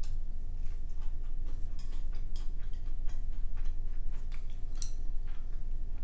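Close-miked mouth eating sounds: irregular wet clicks and smacks of chewing rice, several a second, over a steady low hum.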